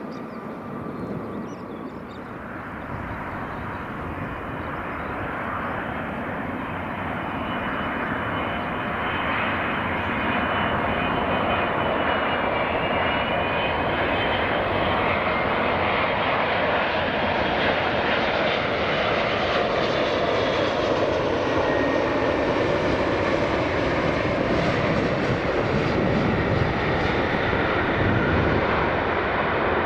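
Jet airliner's engines: a broad rushing noise that grows louder over the first ten seconds or so and then holds, with faint whining tones drifting slightly in pitch.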